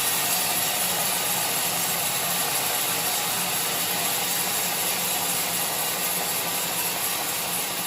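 Sawmill machinery running steadily: a constant motor hum under an even hiss, with no change in load.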